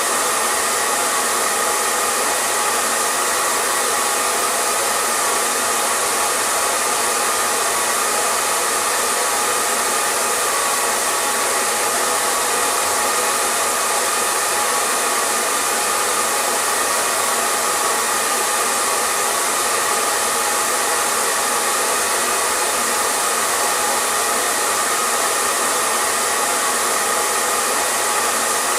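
Hair dryer running steadily: an unbroken rush of blown air with steady tones from the motor and fan running through it.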